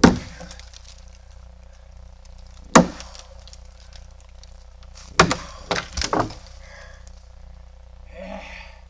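Axe chopping into a tree branch: a sharp blow at the start, another about three seconds later, then a quick run of four blows near the middle.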